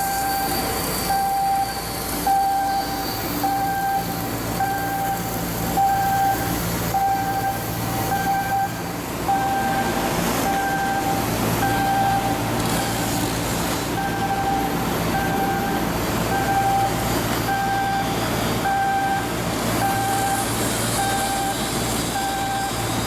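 An electronic warning beeper repeating evenly about once a second, a single steady pitch, over a continuous low hum of heavy machinery.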